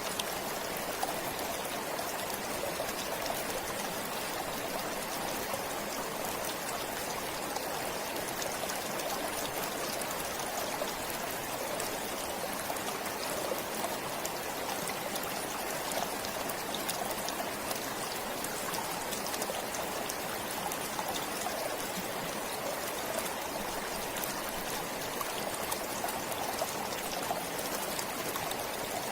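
Forest stream flowing steadily over rocks, a continuous rush of water with fine trickling and splashing.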